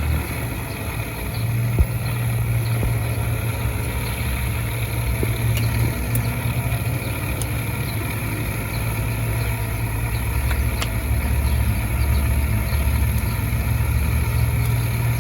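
A steady low motor hum runs throughout, with a few faint clicks and taps over it.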